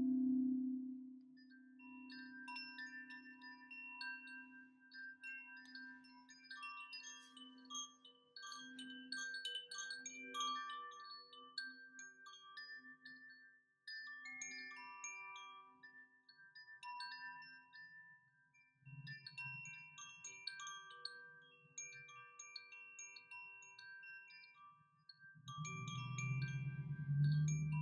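Wind chimes ringing, many high bell-like notes overlapping. A low ringing tone struck just before fades slowly with a wavering beat over the first ten seconds or so, and a louder low swell comes in near the end.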